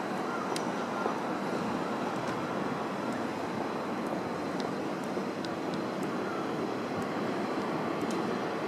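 Steady, even rumble of distant train traffic across a wide rail yard, with a few faint high ticks.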